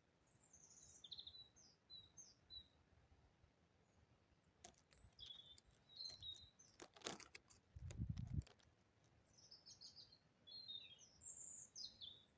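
Small birds chirping in short, high twittering phrases, in three bursts with pauses between them. Between the bursts come a few sharp clicks, and a brief low rumble about eight seconds in.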